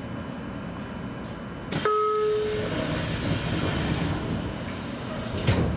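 JR Kyushu 813 series electric train standing at a platform: a sudden clunk, then a short steady beep-like tone and a burst of air hiss, with another thump near the end.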